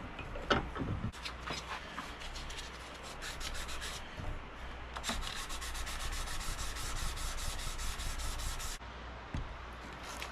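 Hand-sanding a steel knife blade with wet 600-grit sandpaper wrapped around a wooden block: back-and-forth rubbing strokes, uneven at first, then a fast steady run of about six or seven strokes a second that stops abruptly near the end.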